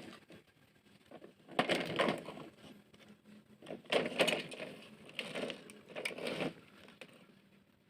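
Toy tanker truck being handled and scraped, in four short rough bursts of noise.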